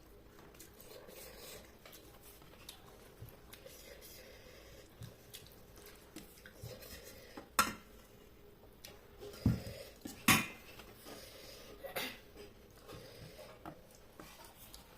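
Dishes and cutlery clinking and knocking during a meal: quiet scattered handling noise with four sharp clinks in the second half, the loudest about ten seconds in.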